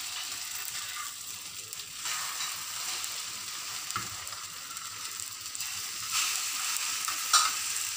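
Bread slices frying in oil in a pan, with a steady sizzle. A couple of light clicks come as tongs and a spatula strike the pan while the slices are turned over, one about halfway through and one near the end.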